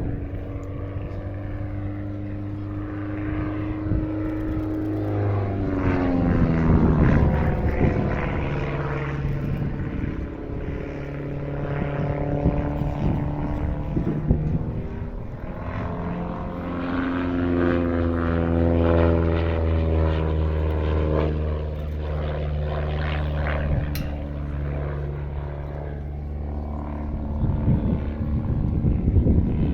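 Pitts Special S1 aerobatic biplane's piston engine and propeller running hard through a display. The engine pitch swoops down and up several times as the aircraft passes and manoeuvres.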